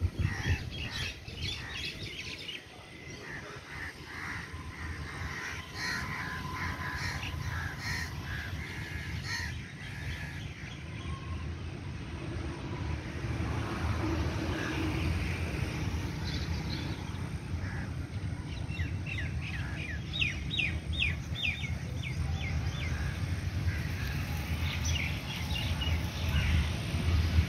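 Birds chirping and calling, with a quick run of chirps about three-quarters of the way through, over a steady low rumble.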